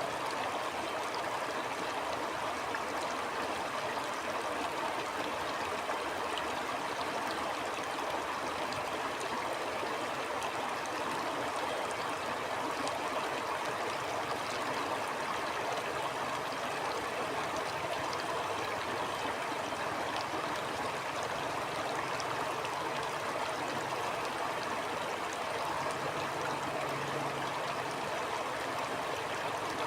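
A stream flowing steadily, water running and gurgling over rocks.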